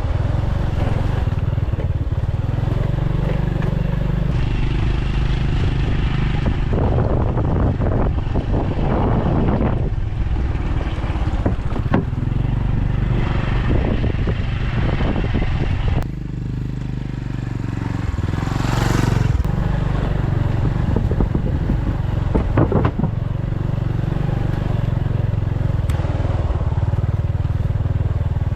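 A small engine running steadily, with scattered knocks and clatter and a brief hiss about two-thirds of the way through.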